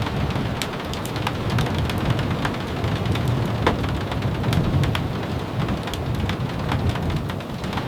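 Steady rain with a low rumbling underneath and many scattered sharp taps of drops.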